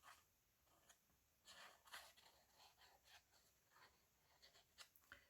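Near silence, with a few faint rustles and light taps of paper being handled.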